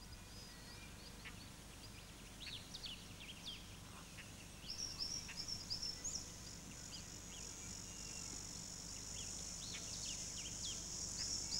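Faint chorus of small birds chirping, many short quick calls, with a steady high-pitched buzz that comes in about halfway through.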